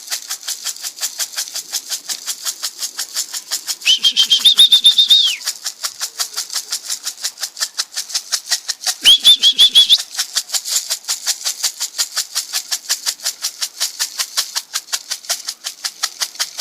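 A steady, fast rattle, about five strokes a second, under a person's whistling to call a kit of tippler pigeons down: a long whistle about four seconds in and a shorter one about nine seconds in.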